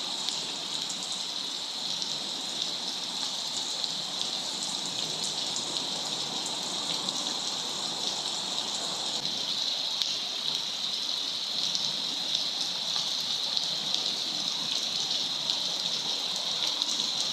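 Steady rain falling: an even, continuous hiss with scattered drop ticks.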